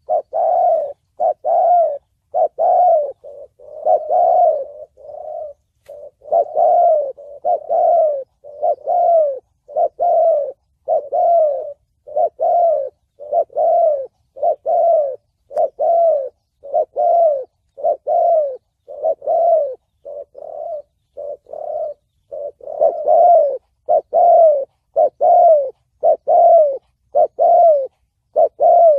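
Spotted dove cooing over and over in the deep 'thổ bầu' voice style, about one rounded coo a second, with bunches of shorter, quicker notes in between.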